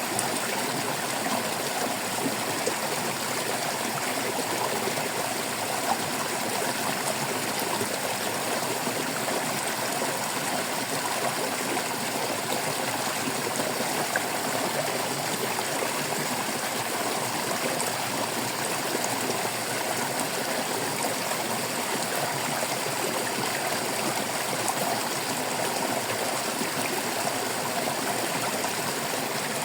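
Stream water flowing and babbling over stones, a steady rush with small splashes and trickles throughout.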